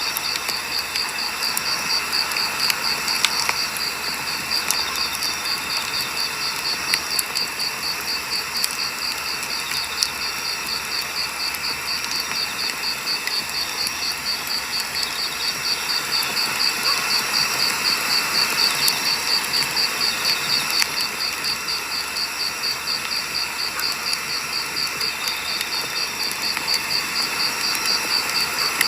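Firewood burning with scattered crackles and sharp pops, over a steady, evenly pulsing high chirping of crickets.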